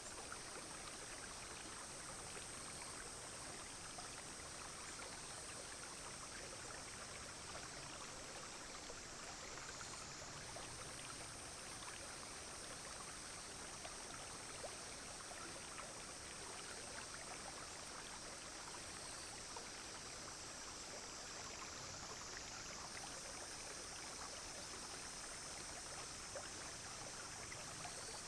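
Small clear stream flowing steadily, with a constant high-pitched drone of cicadas and other insects above it.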